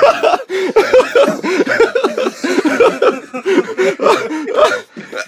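A person's voice in a fast run of short, wordless laughing cries that bend up and down in pitch, several a second.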